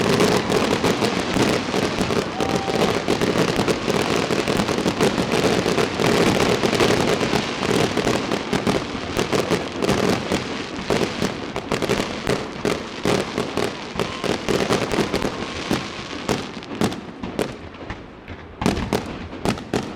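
Fireworks display: a dense, continuous barrage of bangs and crackling, thinning after about fifteen seconds into separate sharp bursts.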